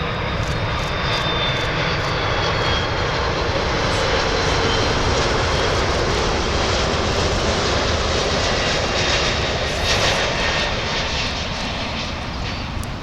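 Jet airliner passing close, a loud steady rush of engine noise that swells toward the middle and eases off near the end, with a faint falling whine in the first three seconds.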